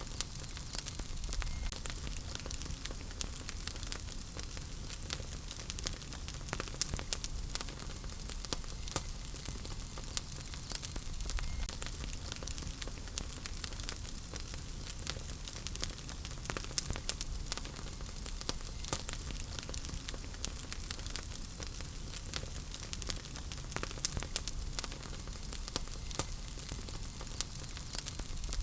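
Wood fire crackling in a fireplace: a steady hiss over a low rumble, with frequent sharp pops and snaps scattered throughout.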